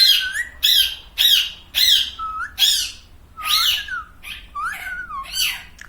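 Pet parrot squawking repeatedly: about ten short, harsh calls, roughly two a second, with a brief break near the middle.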